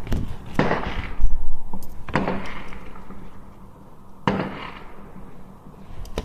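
Fireworks going off: about four sharp bangs, each trailing away in a fading crackle, the deepest and loudest about a second in.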